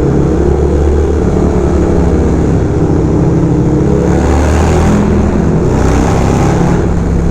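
Harley-Davidson V-twin running loud and steady through a Fab 28 aftermarket exhaust, heard in a road tunnel.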